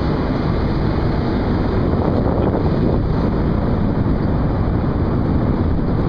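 Wind blowing across the microphone aboard a vessel at sea: a steady, rough rumble with no distinct tones.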